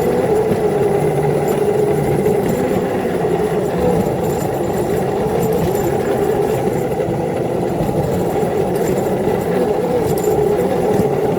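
Miniature railroad locomotive's motor running steadily under load while it pushes a snowplow along the track, a continuous drone with a strong mid-pitched hum.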